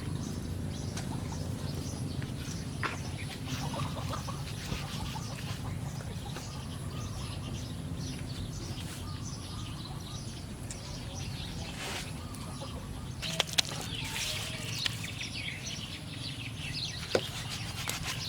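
Birds chirping over a steady low rumble, with a few sharp clicks about two-thirds of the way through.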